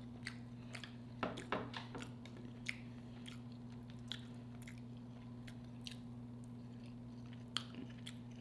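A person chewing red snapper close to the microphone, with scattered sharp clicks, over a steady low hum.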